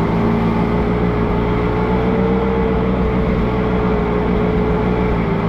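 Allis-Chalmers G tractor's small four-cylinder engine running steadily, with a constant pitch that rises slightly and settles back.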